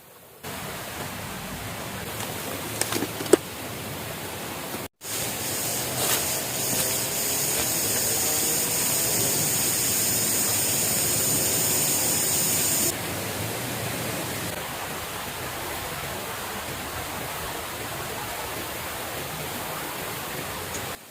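Steady rushing noise with a few light knocks about three seconds in; after a brief dropout it comes back louder, with a high hiss on top, until it drops back near thirteen seconds.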